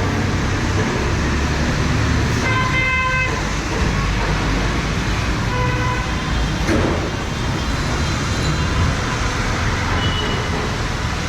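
Busy city street traffic running steadily with rain hiss, while a vehicle horn honks about two and a half seconds in and another, fainter one around six seconds.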